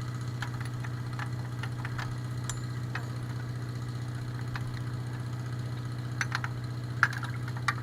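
A steady low mechanical hum like an engine idling runs throughout. Over it come scattered sharp metal clinks of wrenches on bolts, the loudest about seven seconds in.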